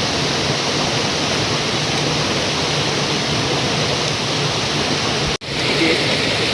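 River water rushing close by, a steady loud hiss of flowing water that drops out for an instant a little over five seconds in.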